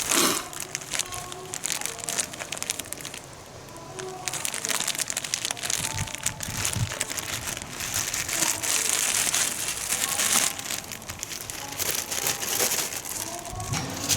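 Rustling and crinkling handling noise, with many small irregular clicks and knocks, quieter for a moment around a quarter of the way in.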